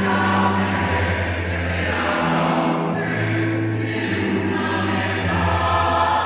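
Choir singing in harmony, holding long chords that change every second or two.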